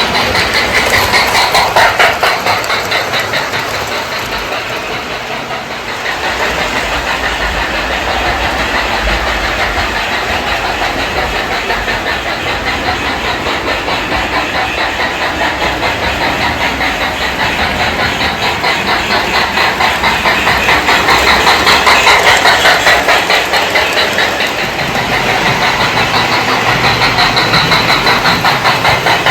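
Lionel Sound of Steam board in the tender of a 1970s Lionel Milwaukee Road O gauge train, making fast, even steam chuffing through a higher-ohm speaker: a crisp sound like a small steam engine. The wheels run on the track underneath, and the sound swells and fades several times as the train moves.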